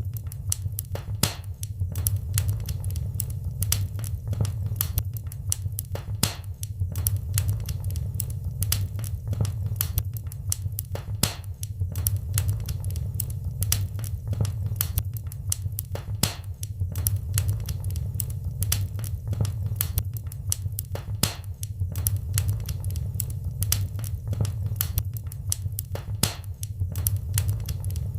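Wood fire in a fireplace, crackling and popping at an irregular rate over a steady low rumble of flames.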